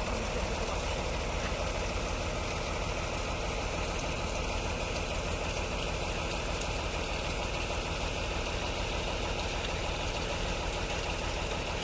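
An engine running steadily at an even speed, a constant low hum with no changes.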